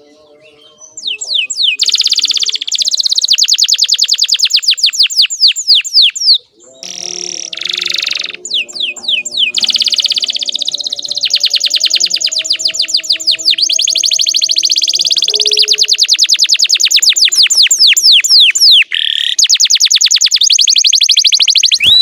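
Domestic canary singing a long song of rapid trills, each a fast run of repeated high notes, passing from one trill to the next with only brief breaks.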